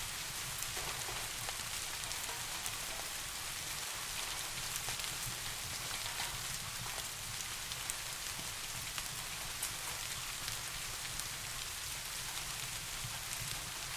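Steady soft rain falling, with scattered sharp ticks of single drops and a steady low rumble underneath.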